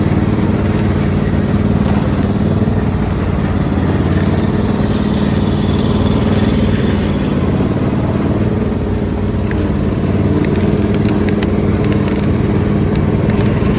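Riding lawn mower engine running steadily under way.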